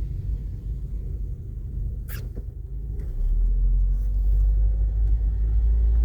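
Low rumble of a car's engine and tyres heard from inside the cabin while driving on a snowy road, growing louder about three seconds in. A single sharp click about two seconds in.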